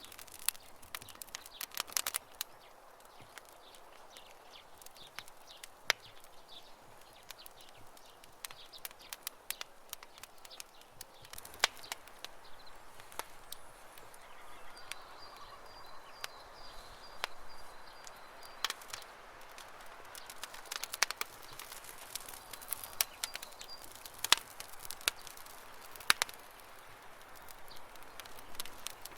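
Campfire wood crackling, with sharp irregular pops and snaps over a soft hiss. Birds chirp faintly, most clearly about halfway through.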